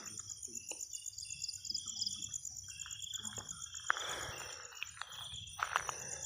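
Night insects, crickets among them, chirping in a steady high-pitched pulsing chorus, with a few shorter chirps lower down. Scattered rustles and short knocks come and go, a little louder about four seconds in and near the end.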